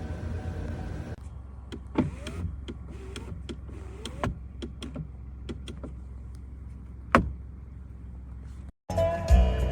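Power window running, with a low hum, scattered sharp clicks and a few short rising squeaks. Music begins right at the end.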